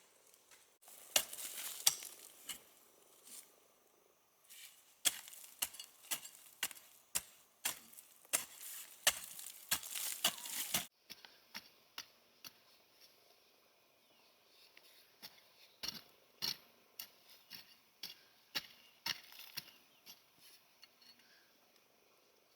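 Hand tools working wood: irregular sharp chops and knocks, roughly one or two a second, with stretches of rasping or scraping between them in the first half.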